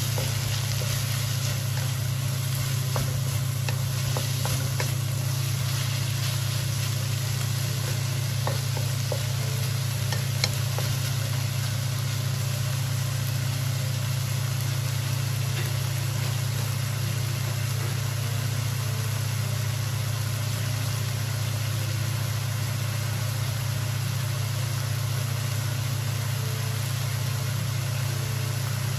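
Diced pork, carrots and onion sizzling in a wok, with a wooden spatula scraping and tapping the pan through the first several seconds, then frying undisturbed. A steady low hum runs underneath.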